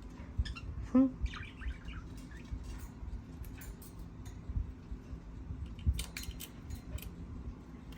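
Pet birds chirping briefly, with a louder short call about a second in, and clusters of sharp ticks and taps about six seconds in.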